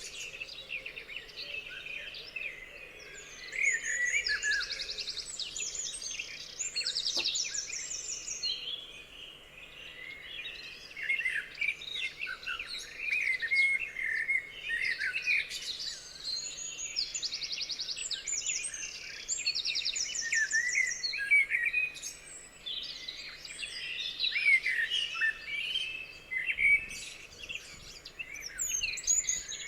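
Several songbirds singing together in a busy chorus of chirps and warbling phrases, with a fast high rattling trill repeated every few seconds.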